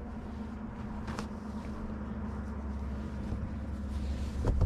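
Steady low hum and rumble, with a light click about a second in.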